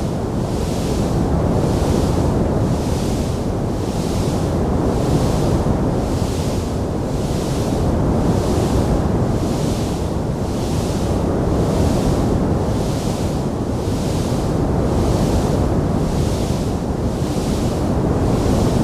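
Wood fire in a fireplace burning with a steady, dense rushing noise, no separate crackles standing out, and a faint hiss on top that swells and fades about once a second.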